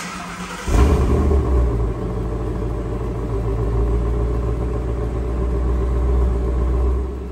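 A 2016 Ford Mustang S550's engine starts up on the exhaust it had before the Roush axle-back was fitted. After a brief crank it catches under a second in and flares loudly for about a second, then settles into a steady deep idle.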